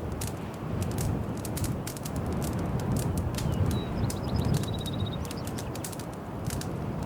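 Wood fire crackling in a fireplace, with a steady low rumble of the flames and frequent sharp pops. A little past the middle, a brief faint high trill of rapid notes like a small bird chirping.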